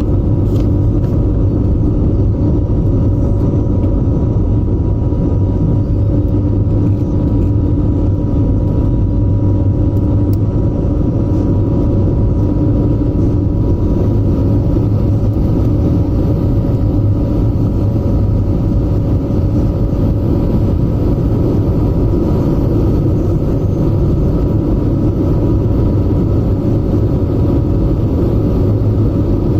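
Airbus A320neo's Pratt & Whitney geared turbofan engines running steadily, heard inside the passenger cabin as a loud, even rumble with several steady hums layered over it.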